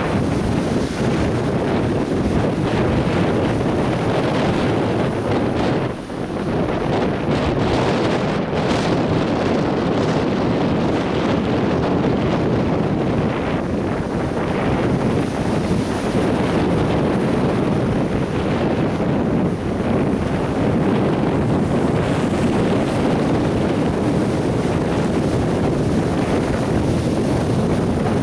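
Atlantic Ocean surf breaking and washing on a sandy beach, heard as a continuous rushing roar with wind buffeting the microphone. The sound briefly drops about six seconds in.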